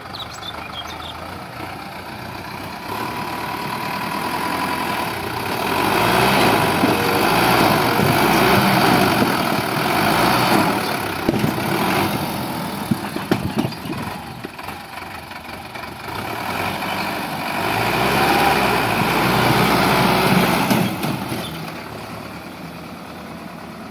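Sonalika DI 750 tractor's diesel engine running, growing louder twice, with a few sharp knocks in the middle.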